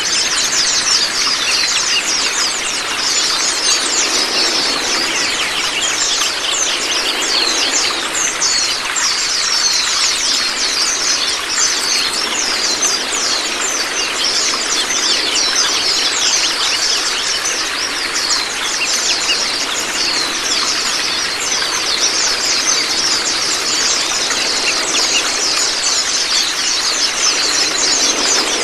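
Running, splashing water with dense, fast, high twittering birdsong over it: a birdsong training track for white-eyes.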